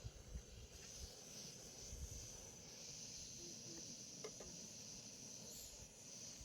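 Faint, steady high-pitched insect trill, as of crickets, with a few soft knocks near the start.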